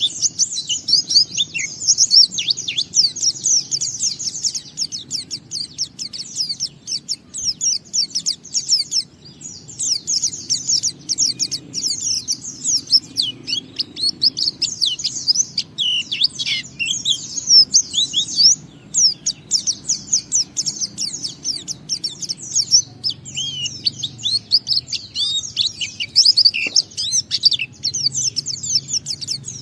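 White-eye (pleci) in full song, delivering a long, fast, high-pitched twittering run of quick notes, the continuous 'ngalas' song. It breaks off only briefly twice.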